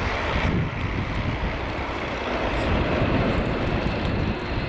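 Airbus A400M's four turboprop engines and propellers in flight, a steady engine noise heavy in the low end.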